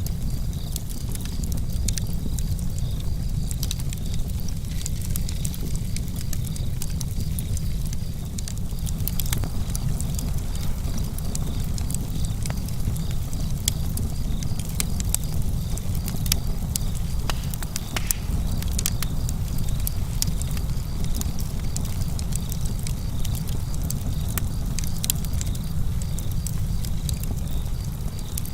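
Campfire crackling: a constant scatter of sharp small pops and snaps from the burning wood over a steady low rumble.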